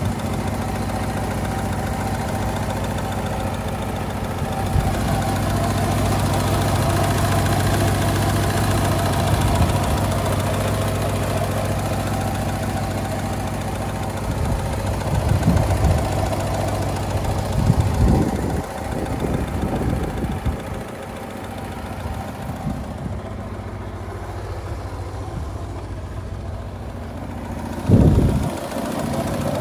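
Lada Niva 1.7i's fuel-injected four-cylinder engine idling steadily. A few brief low thumps come over it, the loudest near the end.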